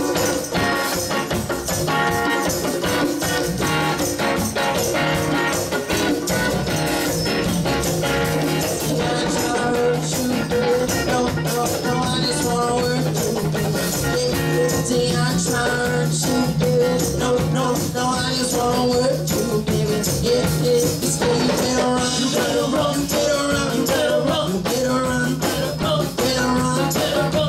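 Live rock band playing a song, mostly instrumental with little or no singing.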